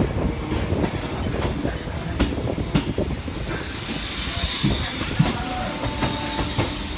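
Suburban electric local train running on the track: a steady rumble with the clatter and knocks of wheels over rail joints, and a high wheel squeal rising in from about four seconds in.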